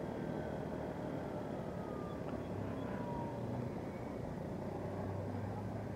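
Steady road and engine noise of a vehicle driving, heard from on board, with a low hum underneath and a faint tone gliding down about two seconds in.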